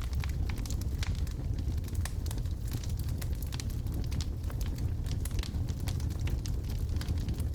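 Wood logs burning in a fireplace: a steady low rumble of the flames with many sharp crackles and pops scattered irregularly throughout.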